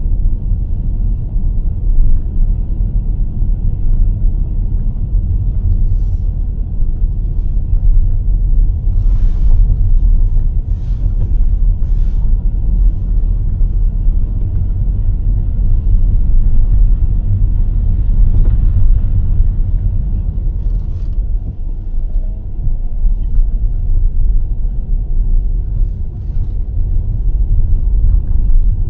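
Car driving, a steady low road-and-engine rumble, with a few sharp clicks or knocks about a third of the way in.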